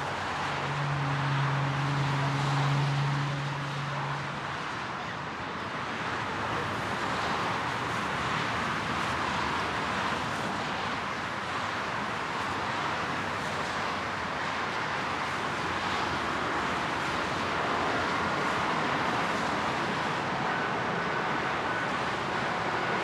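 Steady rushing noise of distant jet aircraft engines, with a low hum for a few seconds near the start and a faint high whine joining near the end.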